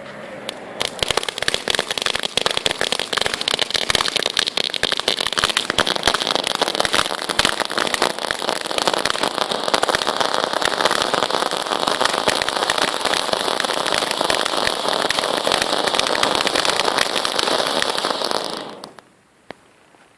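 Hestia Fun Vulcano firework fountain burning, a dense crackle over a steady hiss. It starts about a second in and dies away shortly before the end.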